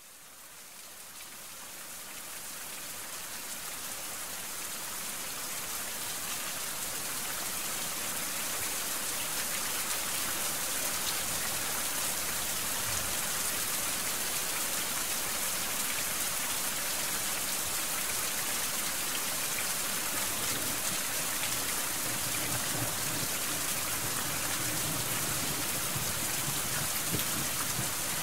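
Steady rain, an even hiss dotted with small drop ticks, fading in over the first several seconds and then holding level.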